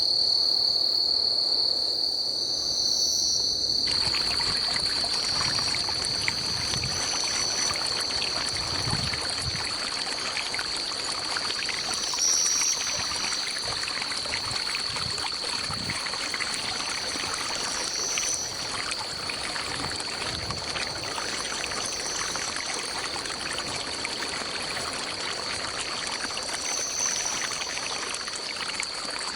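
Stream water trickling, coming in abruptly about four seconds in, over a steady high-pitched insect drone and a short chirp repeating every two to three seconds.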